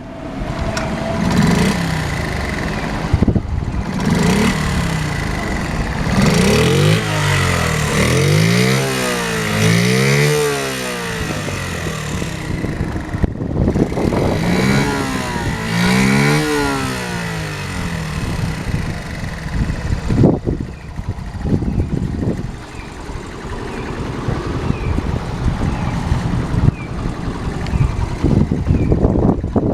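Honda Monkey minibike's small single-cylinder four-stroke engine running after a start-up check, revved up and down repeatedly through the first half, then settling to idle with a few short throttle blips near the end.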